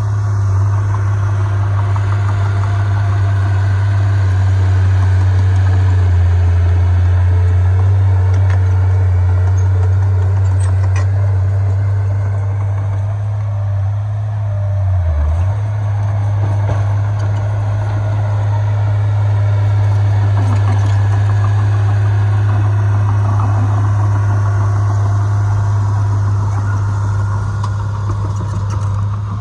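Heavy diesel engine of earthmoving equipment running steadily with a deep drone. The pitch dips briefly about halfway through.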